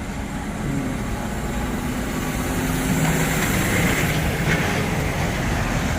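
Heavy truck's diesel engine running under load as the lorry moves off. It gets louder and climbs slightly in pitch over the first few seconds, then holds steady.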